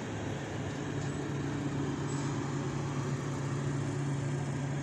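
Trenord regional passenger train rolling along the track past the platform: a steady rumble of the coaches with a steady low hum that comes in about a second in.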